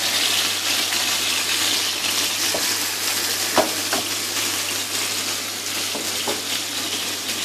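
Chicken wings sizzling in a hot wok as the remaining soy sauce is poured in from a bowl: a steady frying hiss with a few light knocks, the sharpest about three and a half seconds in.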